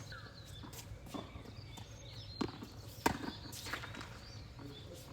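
Tennis rally: a handful of sharp pops from racket strikes and ball bounces, the loudest about three seconds in.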